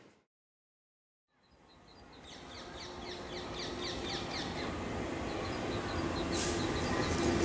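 About a second of silence, then a bird chirping in quick falling chirps over the rumble and rail hum of an approaching Class 66 diesel freight locomotive, growing steadily louder, with a brief hiss near the end.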